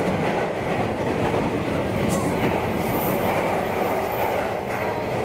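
A 185 series electric train running, heard from its driving cab: a steady rumble of wheels on rail with a faint clickety-clack, while a commuter train runs close alongside.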